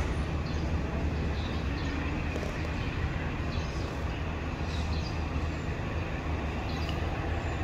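Steady low rumble of a diesel-hauled passenger train, with an even haze of rail noise over it. A few faint, short, high chirps come and go.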